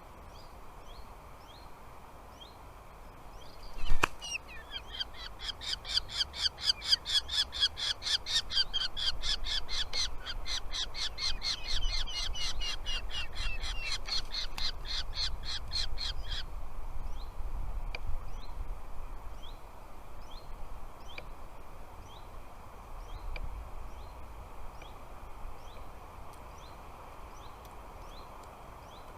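Birds calling at a nest, said to be falcons: a sharp knock about four seconds in, then a fast run of loud, harsh repeated calls lasting about twelve seconds. Faint short high chirps repeat about once a second throughout.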